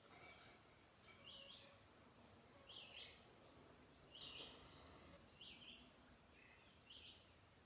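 Faint wild bird calls: one bird repeats a short, quick call about every second and a half, about five times, while other birds give higher notes. A hiss lasting about a second comes in about four seconds in.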